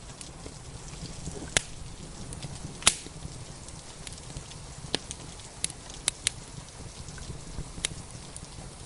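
Wood fire crackling, with about seven sharp pops scattered through, the loudest about three seconds in, over a steady hiss of rain and a low rumble.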